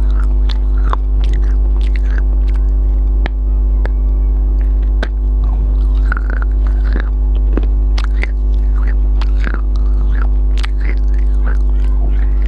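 A person chewing biryani close to the microphone, with frequent short wet mouth clicks and smacks, over a loud steady electrical hum.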